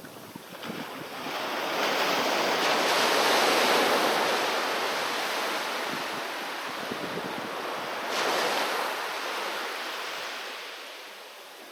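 Sea waves breaking on the shore. A wave swells in about a second in and washes for several seconds, a second, shorter surge follows near the end of that wash, and the sound then fades.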